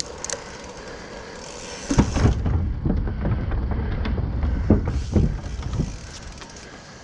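Low, jolting rumble with scattered knocks from about two seconds in, lasting some four seconds: the bicycle's ride noise jarring the phone and its microphone.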